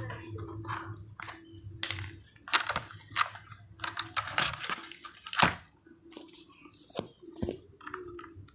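Irregular plastic clicks, knocks and scraping rustles from parts of a folding child's trike being unclipped and pulled off by hand, with two sharper knocks about two and a half and five and a half seconds in.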